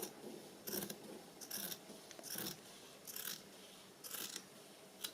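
Scissors cutting through cotton fabric in a series of short snips, about seven of them, a little under a second apart.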